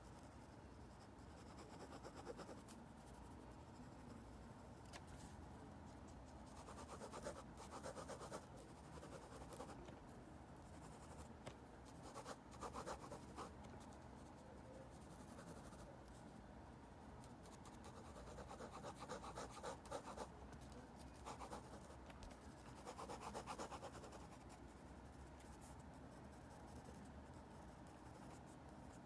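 Faint scratching of a drawing tool on paper, in several short spells of a second or two, over a quiet room background.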